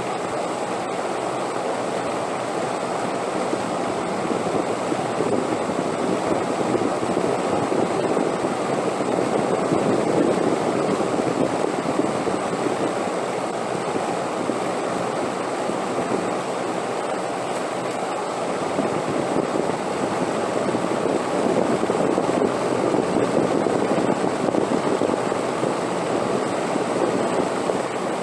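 Steady wind noise, a continuous rushing that swells gently about ten seconds in and again near the end.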